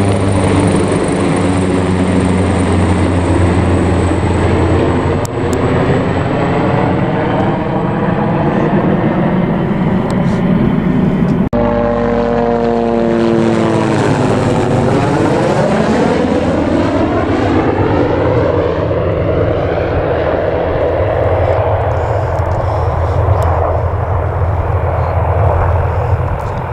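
Leonardo AW139 twin-engine helicopter running loudly as it lifts off and climbs away, its rotor and turbine sound swelling and fading. After a sudden cut about a third of the way in, a Hughes 369D light helicopter's turbine and rotors come in to land, its pitch sweeping down and back up as it passes close.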